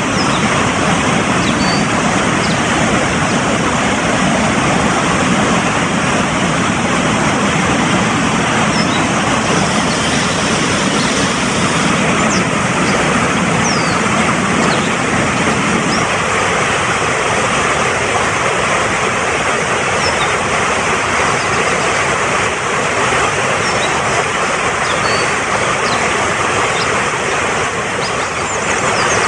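Fast-flowing mountain stream rushing steadily, with short high bird chirps here and there over it. The deeper part of the rush drops a little about halfway through.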